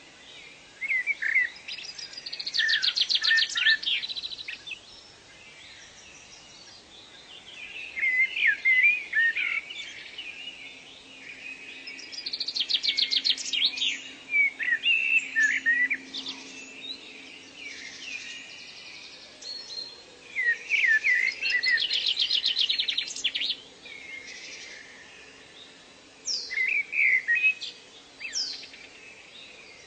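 Birdsong: about five song phrases of quick slurred whistles, some ending in a fast trill, with pauses of a few seconds between them. A faint steady low hum runs underneath from about a third of the way in.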